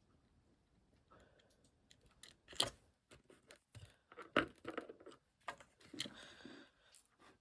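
Irregular small clicks and taps of craft materials and tools being handled on a work surface, with two sharper knocks partway through and a brief rustle near the end.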